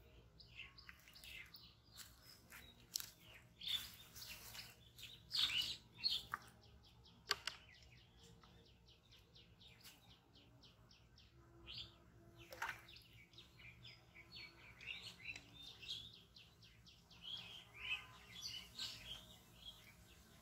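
Small birds chirping and calling, many short high chirps scattered throughout, a few louder than the rest.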